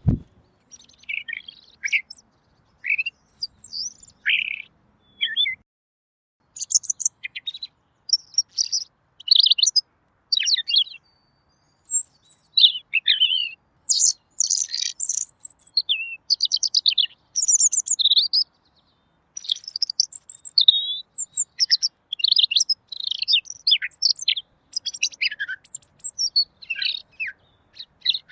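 Pekin robin (red-billed leiothrix) singing clear, high-pitched warbled phrases in quick succession, each lasting under a second, with short pauses between.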